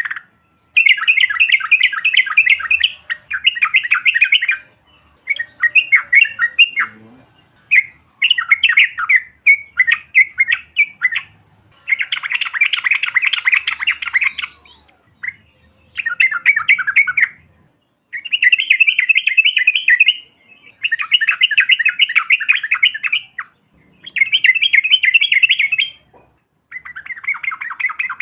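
Yellow-vented bulbul (trucukan) song: about ten loud, fast chattering phrases, each one to three seconds long, with short pauses between them.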